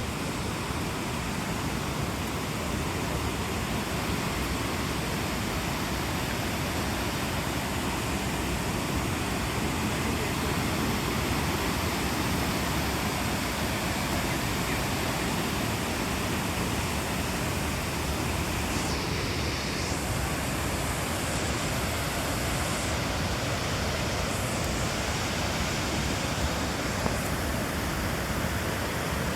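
Torc Waterfall rushing: a steady, unbroken roar of falling water.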